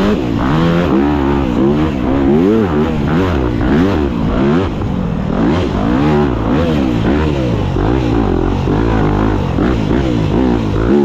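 Dirt bike engine being ridden hard, the revs rising and falling again and again as the throttle is opened and closed.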